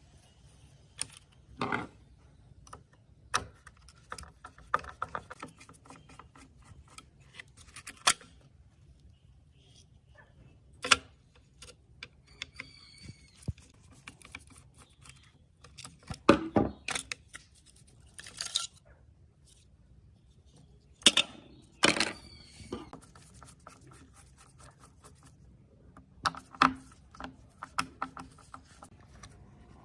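Irregular clicks, knocks and light rattles of hard parts being handled, with about a dozen sharper knocks spread unevenly through the stretch.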